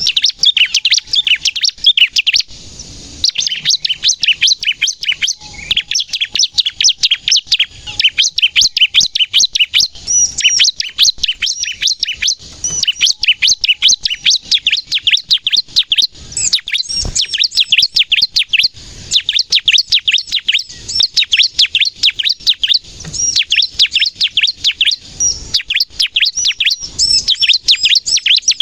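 Bar-winged prinia (ciblek) singing without let-up in fast, high-pitched runs of sharp chirps. This is the rapid-fire 'nembak' song of a bird in full voice.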